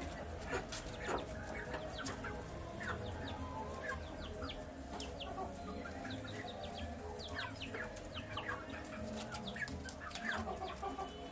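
A group of chicks peeping while they feed: many short, high, falling peeps overlapping throughout, with scattered sharp clicks.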